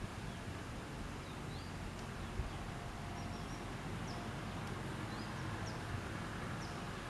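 Outdoor background noise with short bird chirps now and then, and a brief low thump about two and a half seconds in.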